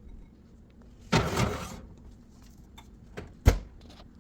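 Oven being loaded: a scraping slide about a second in, then a small knock and a sharp clack of metal and door near the end.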